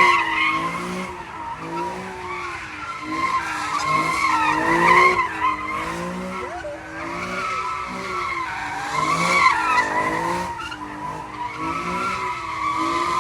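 Infiniti Q50 sliding sideways in circles: its tyres squeal continuously while the engine revs rise and fall in a repeating wave about every second and a half.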